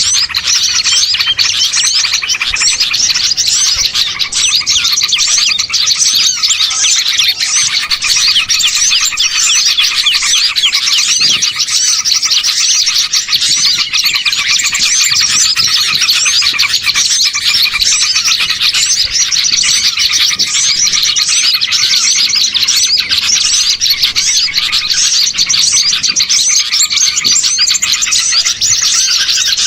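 Dense, unbroken chorus of many small songbirds chirping and twittering over one another: a mixed small-bird luring recording (pikat burung kecil) of the kind played to draw wild birds in.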